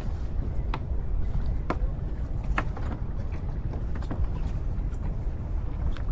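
Wind and water noise aboard a racing sailboat under way, a steady low rumble, with scattered sharp clicks and creaks from the boat's gear, roughly one a second.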